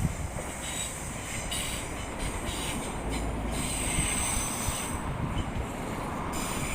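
Class 150 Sprinter diesel multiple units running past on the line, a steady rumble with a thin high squeal from the wheels.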